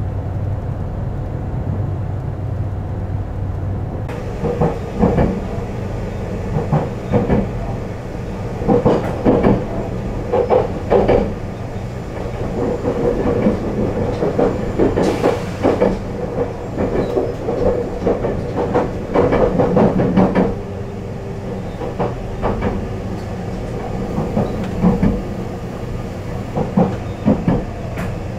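JR Central HC85 series hybrid train running along the track: a steady low hum with repeated clattering knocks of the wheels over the rails, starting a few seconds in. A brief hiss about halfway through.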